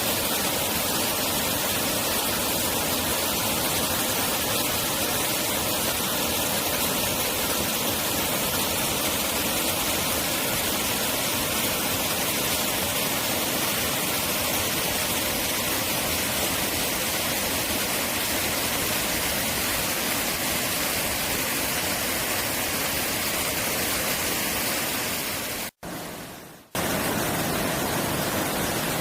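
Mountain stream rushing steadily, its flow swollen after rain. The sound cuts out for about a second near the end and then returns.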